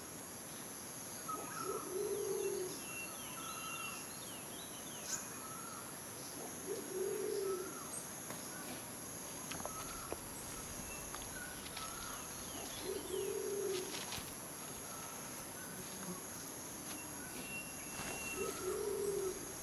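A bird's low cooing call repeats about every five to six seconds, over a steady high-pitched insect whine and faint chirps from other birds and insects.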